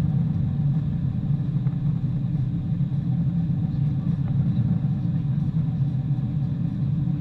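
Steady low rumble of a Boeing 747-400 airliner, holding an even level and pitch with no rise or fall.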